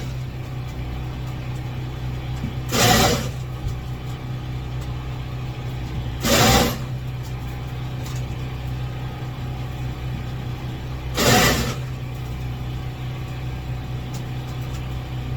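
A steady low machine hum, broken by three short, loud bursts of noise a few seconds apart.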